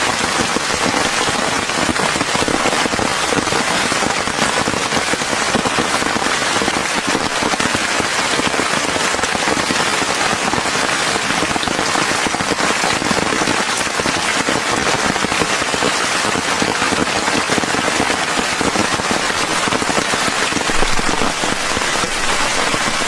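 Heavy rain falling steadily on a surface, a dense, even patter of countless drops.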